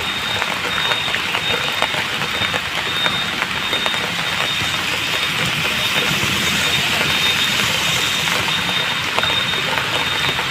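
Steady rain falling, a loud even hiss with scattered small patters.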